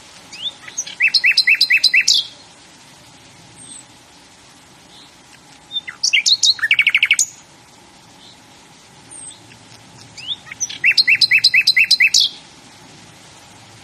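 A songbird singing three short songs of rapidly repeated notes, about five seconds apart.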